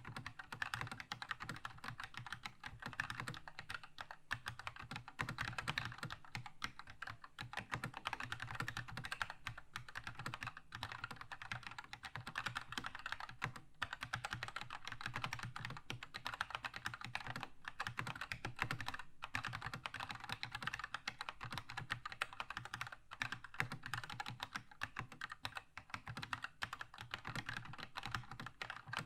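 Continuous fast typing on a Keychron K2 mechanical keyboard with red linear switches: a dense, steady stream of key clacks with only a few brief pauses.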